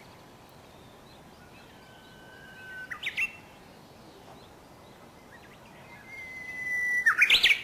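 Japanese bush warbler (uguisu) singing its "hoo-hokekyo" song twice: each a long held whistle followed by a quick rising flourish, the second louder, near the end.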